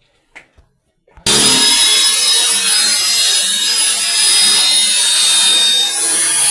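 Electric power drill running steadily with a high whine, starting abruptly about a second in.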